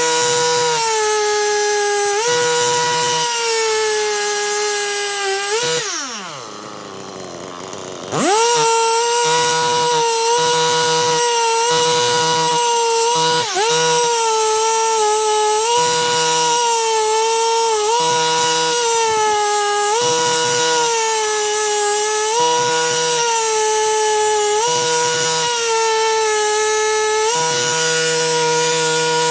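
Stihl MS 261 C-M chainsaw held at high revs while bucking firewood, its pitch sagging slightly and recovering every couple of seconds. About six seconds in the throttle is let off and the engine falls toward idle, then it is revved sharply back up about two seconds later.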